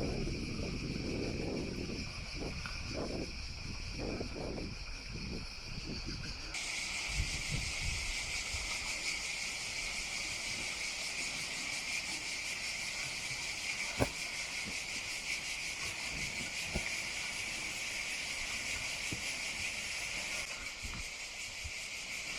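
Insects buzzing in a steady chorus at several high pitches, with wind and rustling on the microphone in the first few seconds. The buzzing gets markedly louder about six seconds in, and there is a single sharp click about fourteen seconds in.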